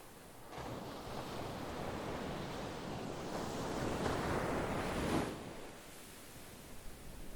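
Sea waves: one wave surges in about half a second in, builds to its loudest around four to five seconds, then drops away quickly into a quieter wash.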